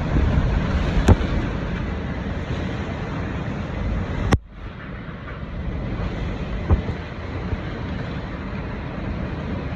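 Hurricane-force wind blowing hard across the microphone, with a few sharp knocks. After the loudest knock, about four seconds in, the wind noise drops suddenly for a moment and then builds back up.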